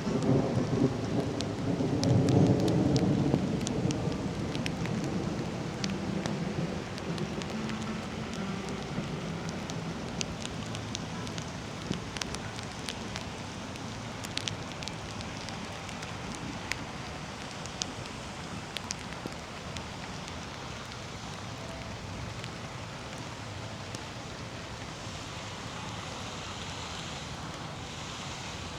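A roll of thunder, loudest about two seconds in and dying away over the next few seconds, over steady rain with scattered sharp drops hitting close by.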